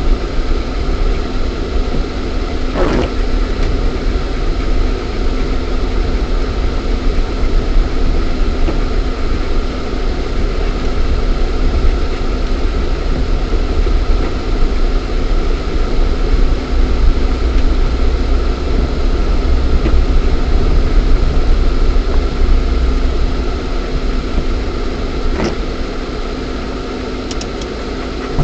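Lada Niva 1.7i's four-cylinder petrol engine and drivetrain running as the car drives, heard from inside the cabin: a steady low rumble with a steady hum over it. A short knock comes about three seconds in and another near the end.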